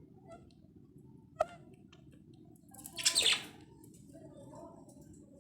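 Small pet parrot calling: faint chirps, a sharp click about a second and a half in, then a loud, harsh screech sliding down in pitch about three seconds in.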